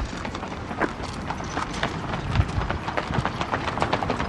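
A horse's hooves clip-clopping at a walk: a run of sharp, irregular hoof strikes, several a second.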